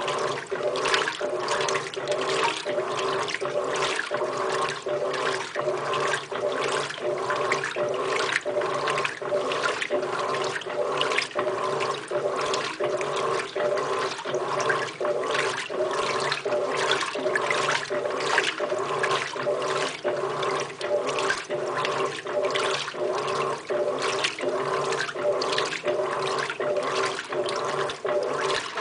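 Electrolux LTR15 top-loading washing machine agitating on its Heavy Dirty program. The motor hums steadily under a regular swish of water and laundry at each agitator stroke, about two strokes a second.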